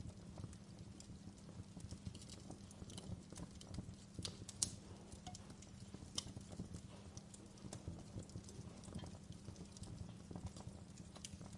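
Wood fire in a fireplace crackling, with irregular small pops over a low steady rumble; a sharper pop stands out about four and a half seconds in, and another about six seconds in.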